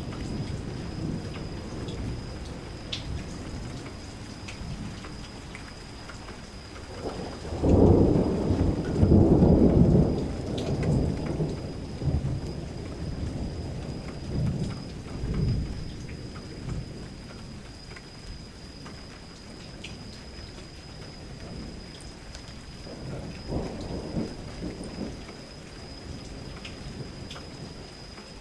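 Steady rain falling, with a long roll of thunder about a quarter of the way in that lasts a few seconds and fainter rumbles later. A faint steady high tone runs underneath.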